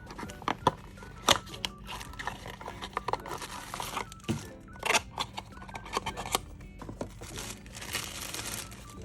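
Plastic packaging crinkling and tearing as it is handled, with sharp handling clicks and taps, over soft background music.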